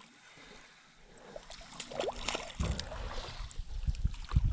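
Low, uneven rumble of wind or handling on the microphone that builds from about halfway through, with a few light knocks and clicks on a small fishing boat.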